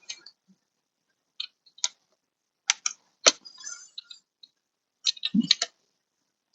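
Irregular sharp clicks and taps from hand-work on a car door panel, its screws and plastic trim being handled, a few scattered over several seconds with a small cluster near the end.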